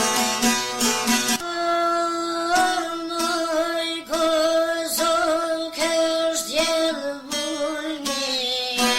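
Albanian folk song: a plucked string instrument plays a quick run of notes, then a solo voice sings a long, wavering line over it, and the rapid plucking comes forward again near the end.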